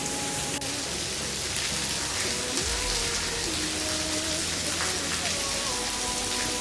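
Steady rainfall, a dense even hiss of drops hitting surfaces. Faint held tones that step and glide between pitches run underneath.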